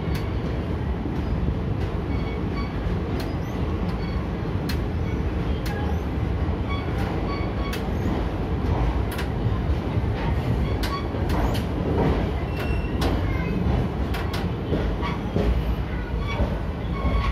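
Indian Railways passenger coach rolling slowly out of a station, heard from on board: a steady low rumble of the running gear with irregular sharp clicks from the wheels over rail joints, and brief high squeaks.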